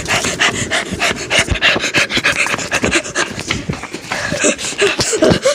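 A person panting hard, with rapid, noisy breaths, out of breath from running.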